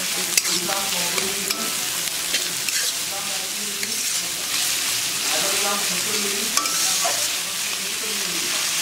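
Chopped onion and green chillies sizzling in hot ghee in a pan, stirred with a spatula that clicks and scrapes against the pan.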